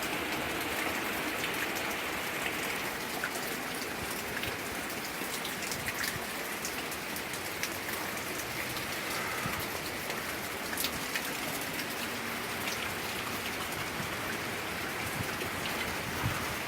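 Steady heavy rain from a tropical-storm squall, with many individual drops ticking sharply on a nearby surface.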